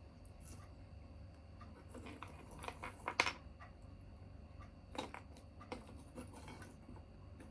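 A small tabletop wood fire crackling, with irregular pops: a quick run of them about three seconds in and another sharp pop about five seconds in, over a faint steady hum.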